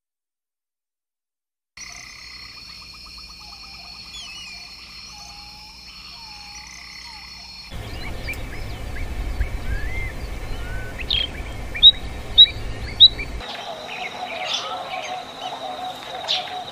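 Frogs calling, a rapid pulsed trill over steady high tones, starting about two seconds in after silence. From about eight seconds in, small birds chirping and whistling over a low rumble, with three loud sharp notes in quick succession around twelve seconds in; near the end a steady high buzz continues under more chirps.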